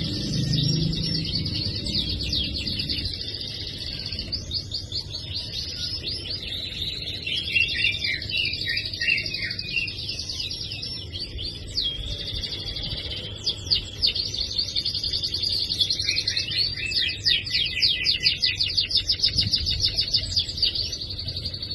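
Domestic canary singing in long, rapid trills and rolling phrases of fast repeated notes.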